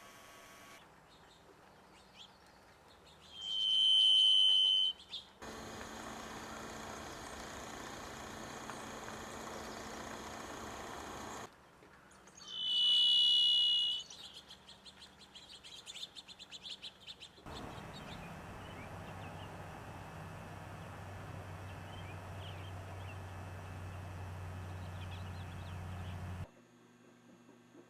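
A bird's song of two long, steady whistled notes at one high pitch, each lasting over a second, about nine seconds apart. Faint chirps and background hiss lie between them.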